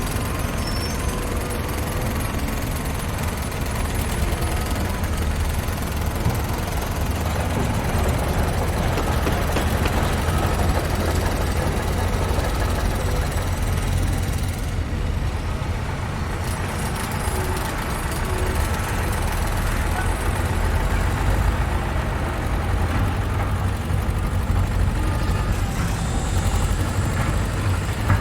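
Construction site ambience dominated by heavy diesel truck and machinery engines running, a steady deep rumble under a dense wash of mechanical noise.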